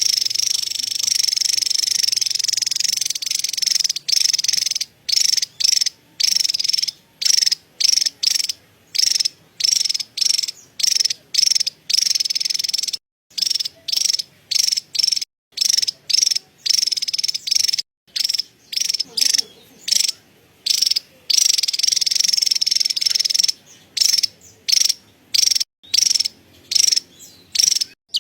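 Javan tesia giving its high, rapid chattering 'cerecet' call, which sounds almost like an insect trill. The chatter runs unbroken for about four seconds, then breaks into short bursts about one a second with brief gaps between them.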